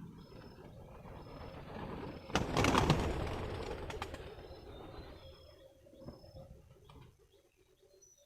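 Birds calling: short high thin calls repeat throughout, and a pulsing call repeats several times a second near the end. A loud noisy rush with rapid flutter swells up about two and a half seconds in and fades by about seven seconds.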